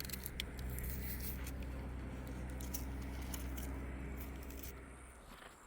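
An engine running steadily with light metallic clinks over it; the engine stops near the end.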